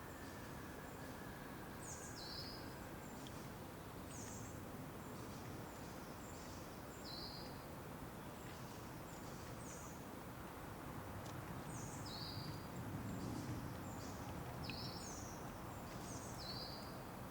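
Small birds chirping, short high notes repeating every second or so, over a steady outdoor background hiss.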